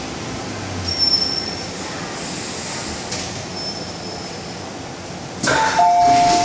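MTR M-Train metro carriage in motion: steady running noise with brief faint high-pitched wheel squeals twice. Near the end, a louder two-note electronic chime starts, the train's onboard announcement chime.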